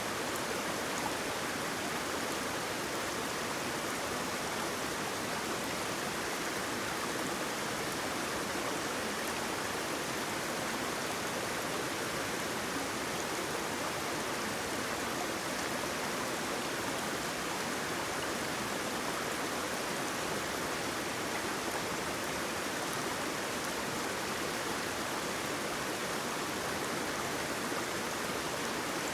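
Waterfall and flowing water rushing in a steady, even wash of noise.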